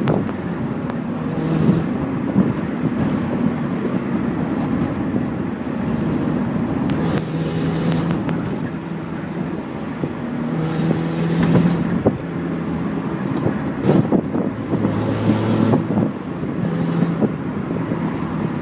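Mazda MX-5 four-cylinder engine running with an exhaust leak, its note swelling several times as the revs rise, with now and then a sharp crack.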